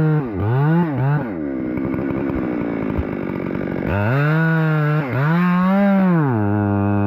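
Two-stroke chainsaw at high revs, its pitch dipping and rising. For about two and a half seconds early on it drops lower and rougher as it loads down in a cut, then revs freely again, with brief dips in speed.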